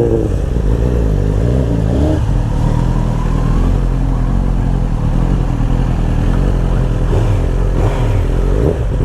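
Motorcycle engine running under way with dense road noise. Its pitch rises briefly about two and a half seconds in as the rider accelerates.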